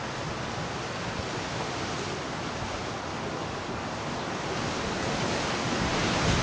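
Dust storm wind blowing hard, a steady rushing noise that grows louder over the last two seconds.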